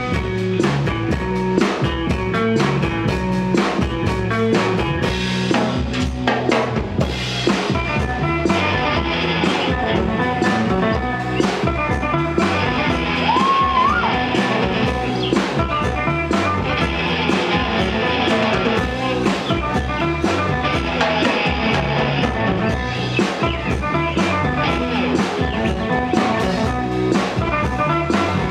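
Live rock band playing an instrumental break: drum kit with a steady beat, electric guitar and bass, with no singing.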